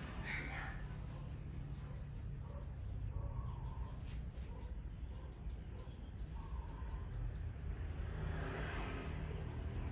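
Wild birds chirping in short, scattered calls over a steady low background noise, with a louder, rougher sound about eight to nine seconds in.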